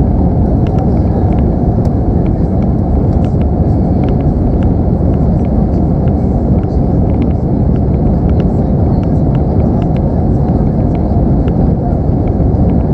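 Steady roar of jet engines and airflow inside the cabin of an Airbus A319 climbing out after takeoff, with faint, irregular light ticks over it.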